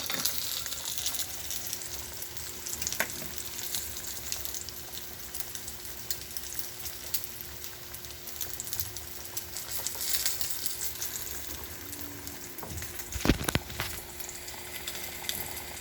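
Steady sizzling and crackling from stovetop cooking, over a faint steady hum. A single sharp knock comes about thirteen seconds in.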